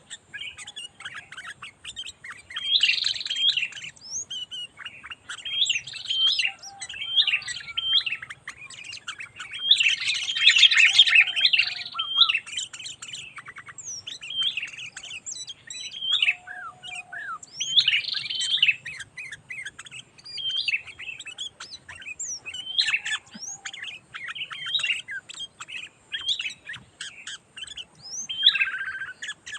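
Sooty-headed bulbul (kutilang) singing: short phrases of quick chirps and whistled notes, repeated every two seconds or so, with a denser burst about ten seconds in.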